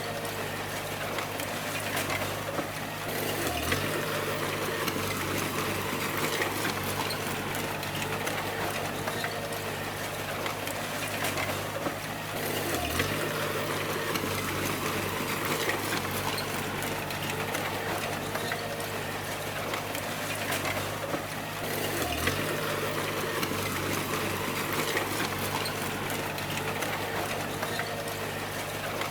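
A small bulldozer's diesel engine runs steadily while the machine works, with clattering machinery noise. The engine note changes in a repeating cycle about every nine seconds.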